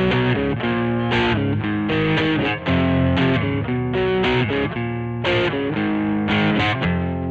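Squier Vintage Modified Jaguar electric guitar played with a distorted tone: a riff of quick picked notes broken by a few briefly held chords.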